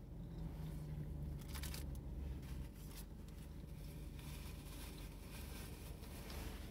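Close-up eating sounds: a breakfast sandwich being chewed with the mouth closed, with short rustles and crinkles of its paper wrapper. A steady low hum sits underneath.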